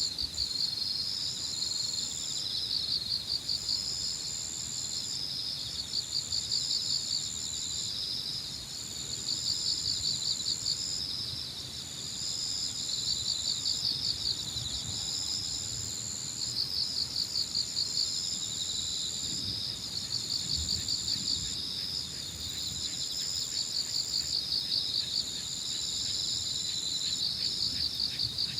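Evening chorus of crickets and other singing insects: a high, steady trill in long phrases with brief breaks, over a lower, rapidly pulsing chirping that swells and fades every few seconds. Light wind rumbles underneath.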